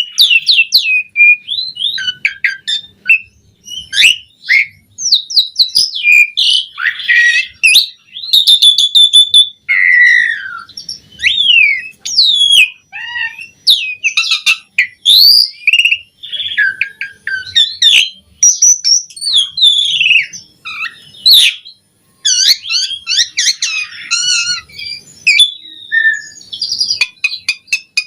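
Asian pied starling (jalak suren) singing a long, varied run of loud whistles, rising and falling glides and harsh chattering notes, with brief pauses between phrases.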